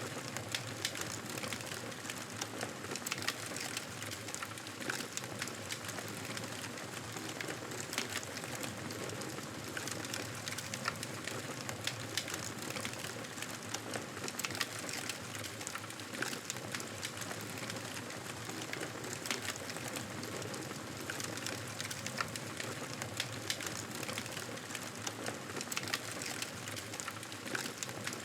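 Wood fire crackling in a fireplace: a steady hiss with frequent small pops and snaps scattered throughout.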